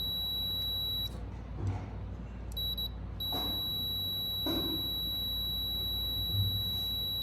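Digital multimeter's continuity buzzer beeping with a steady high-pitched tone while its probes touch the compressor's winding terminals. It breaks off about a second in, chirps briefly, then sounds again steadily from about three seconds in. The tone signals continuity: the winding reads about 3 ohms and is not open.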